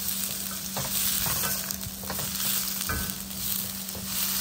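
Shallots, green chillies and galangal shoots sizzling in hot oil while being stirred in the pan, with scattered scrapes and knocks of the stirring utensil against the pan. This is the aromatics being sautéed until fragrant, before the clams go in. A steady low hum runs underneath.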